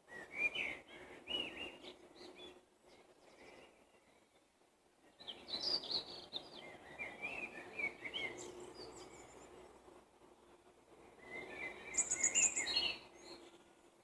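Wild songbirds singing in three bouts of quick chirps and warbling phrases: one at the start, a longer one from about five seconds in, and another near the end.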